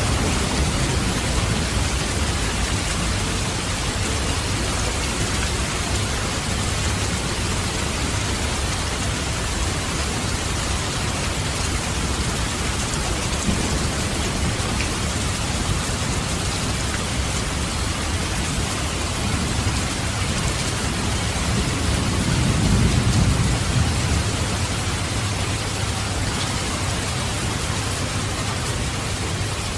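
Steady heavy rain falling, with a low roll of thunder swelling and fading about three quarters of the way through.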